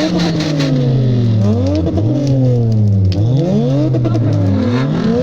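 Motor engines revving, their pitch repeatedly climbing sharply and then sinking slowly, with several of these rises overlapping.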